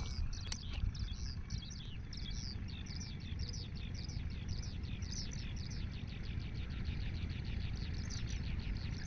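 Small birds chirping in a fast, steady run of short, high, falling chirps, over a low steady rumble. A sharp click about half a second in.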